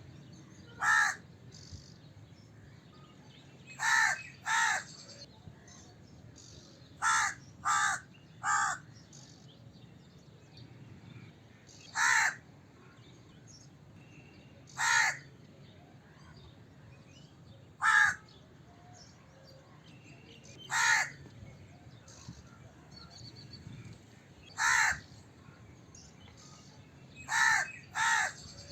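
A crow cawing: about a dozen short, harsh caws, some single and some in quick pairs or threes, with pauses of a few seconds between them.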